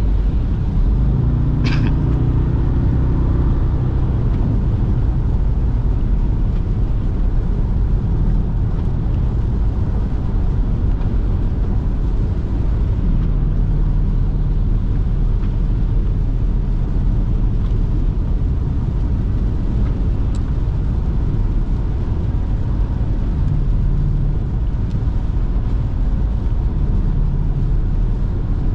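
Jeep Grand Cherokee SRT's HEMI V8 with a mid-muffler delete, running steadily under way with a low exhaust rumble. The engine note rises briefly a second or two in, then settles back to a steady drone.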